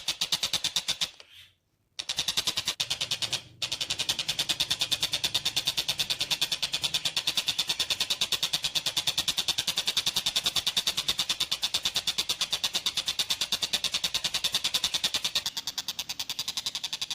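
Tengkek buto kingfisher calling in a fast, even rattling chatter of sharp notes that runs on and on, like a train. It breaks off for under a second about a second in and again briefly a little later.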